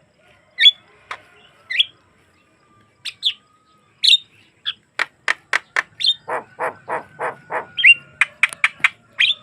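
Javan myna (jalak kebo) singing: short, sharp whistled calls at irregular gaps, then a quick run of clicking notes about three a second, ending in a flurry of high chips.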